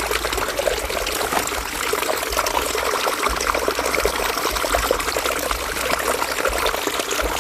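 River water running steadily, a continuous babble of many small trickles and splashes.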